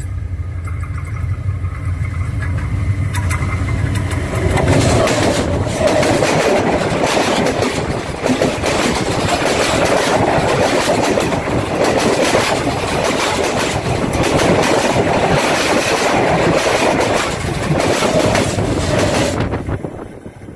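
Diesel train passing directly over the track at rail level. A low engine rumble builds as it approaches, then about fifteen seconds of loud steel-wheel noise and clacking over the rails as the cars roll overhead, dropping away suddenly near the end as the last car clears.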